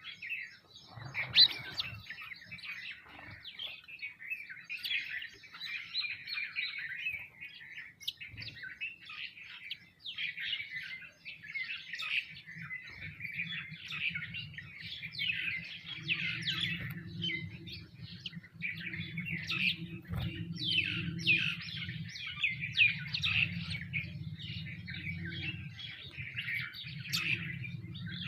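A feeding flock of small birds chirping and calling densely and without a break. A steady low hum comes in about 13 seconds in and runs under the chirping.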